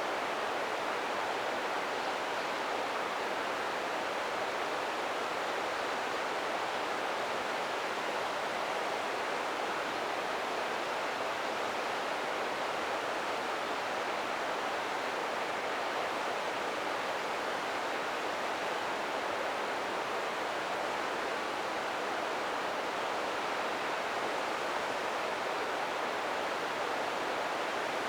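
River water flowing over rocks, a steady even rushing with no let-up.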